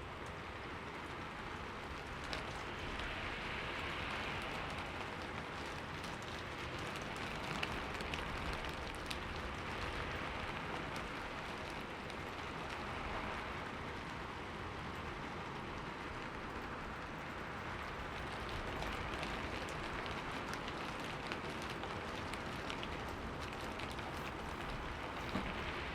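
Steady rain falling, an even hiss of many drops with scattered individual drop ticks and gentle swells in intensity every few seconds.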